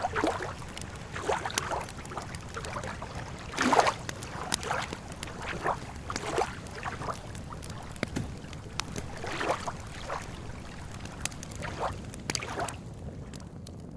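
Lake water lapping and splashing at the shore in irregular washes about once a second, with sharp crackles and pops from a wood campfire scattered through it, over a low steady rumble.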